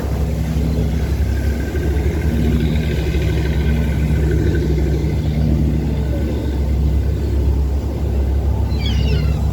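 A boat's engine running with a steady low drone, with wind rumbling on the microphone.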